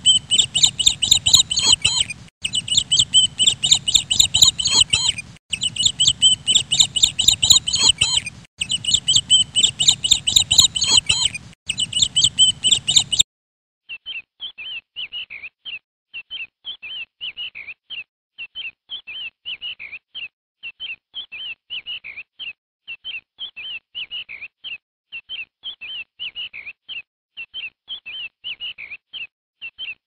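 For about the first thirteen seconds, a dense stream of rapid, high bird chirping, broken by brief gaps every three seconds or so. After a short silence, a brood of quail chicks peeps continuously in quick, high notes, more quietly.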